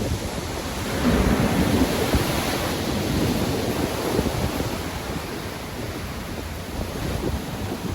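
Rough sea surf with wind: a wave surges in about a second in, stays loud for a few seconds, then eases off into a steadier wash.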